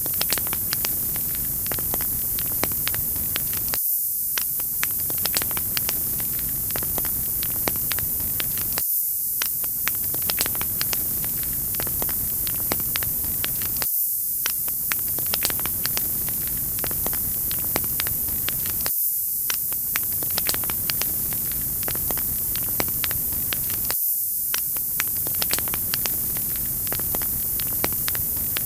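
Wood fire crackling with a steady hiss and many sharp pops and snaps, dipping briefly about every five seconds, the sign of a short looped recording.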